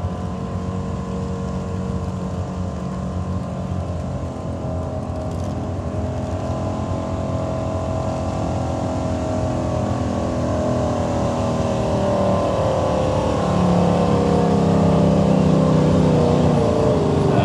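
Pulling truck's engine running hard under load as it drags the weight sled down the track, growing steadily louder, its pitch shifting slowly.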